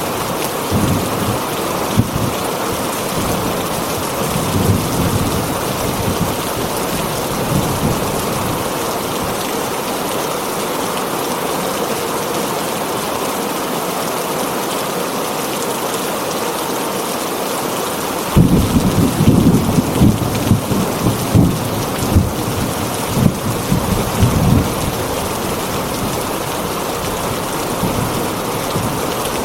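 Steady heavy rain on a tin roof, with a rumble of thunder starting about eighteen seconds in and lasting some six seconds.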